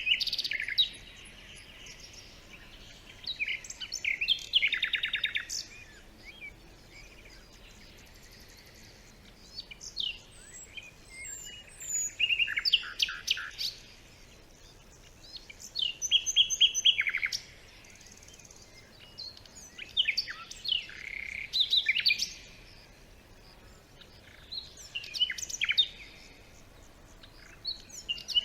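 Several songbirds singing and chirping in a forest, in bursts of quick trills and chirps every few seconds, over a quiet steady background hiss.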